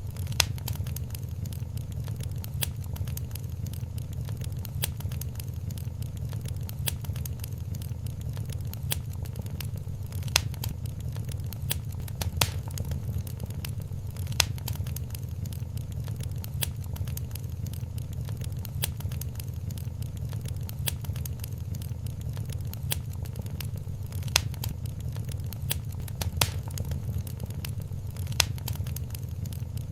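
Wood fire crackling in a fireplace: a steady low rumble with scattered sharp pops, a handful of them louder than the rest.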